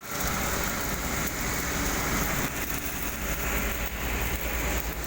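Shotcrete spraying equipment running steadily: a constant low machine rumble under a loud hiss of air and sprayed concrete.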